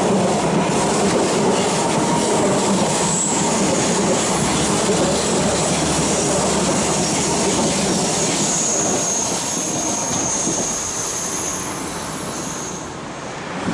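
ICE high-speed electric train running past close by: a steady rush and rumble of wheels on rail, with a thin, high wheel squeal in the second half. It fades near the end as the last car goes by.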